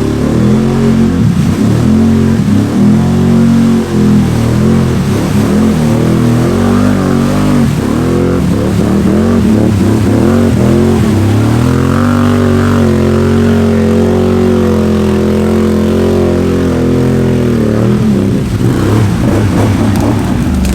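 Can-Am Outlander 850 ATV's Rotax V-twin through an MBRP performance exhaust, loud and rowdy sounding, revving up and down repeatedly as it works through mud. It then holds higher, steadier revs for several seconds past the middle before dropping again near the end.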